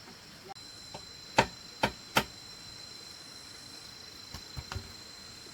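Three sharp knocks on bamboo, about half a second apart, then a few lighter taps near the end, over steady insect buzzing.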